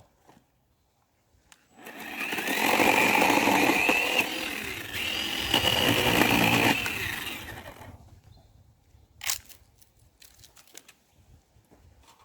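Chainsaw running at high revs in two cuts, one after the other, fading out, followed by a single sharp knock.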